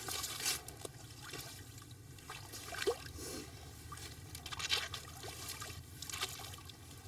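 Water and broken ice sloshing and trickling in an ice-fishing hole, with a few short knocks and clinks spread through it over a steady low rumble.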